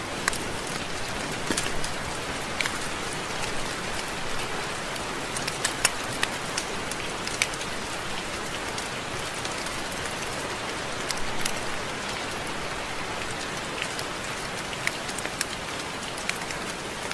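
Steady rain falling, with scattered close drops landing as sharp ticks every second or so.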